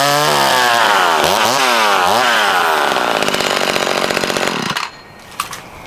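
Vintage McCulloch Mini Mac 35 two-stroke chainsaw revving up and down several times, then held at high speed for about two seconds. It cuts off suddenly just under five seconds in.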